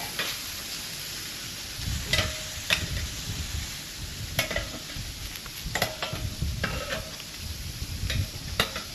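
Food sizzling steadily on a grill, with a handful of sharp metallic clicks and taps spread through it.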